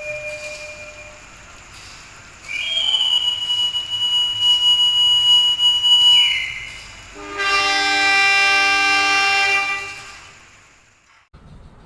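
A long high whistle blast of about four seconds that sags in pitch as it ends, followed by a train horn sounding one chord-like blast for about three seconds, which then fades away.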